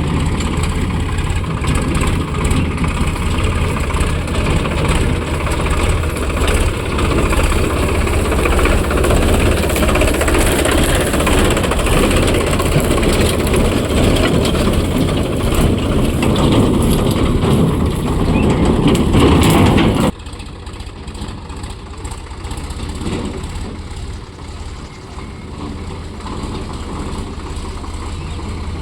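Sonalika DI 42 RX tractor's diesel engine running loudly under load, getting a little louder for about twenty seconds. It then drops suddenly to a much quieter steady running sound.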